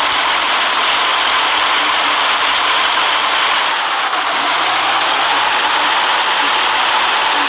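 City bus running, a steady mix of engine and road noise.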